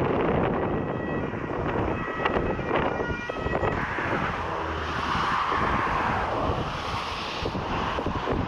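Strong wind buffeting the microphone in gusts, with the engine noise of a landing jet airliner swelling and fading through the middle.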